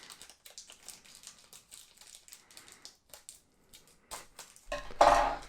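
Scissors snipping and plastic packaging crinkling in a box being opened by hand: a run of small clicks and crackles, with one louder, brief noise near the end.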